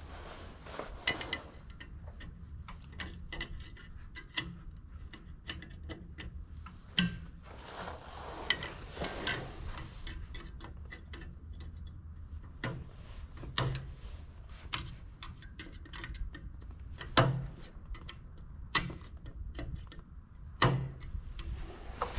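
Irregular clicks, taps and scrapes of small metal and plastic parts being handled as a headlight bulb and its spring retaining clip are worked back into the housing, with a few louder knocks.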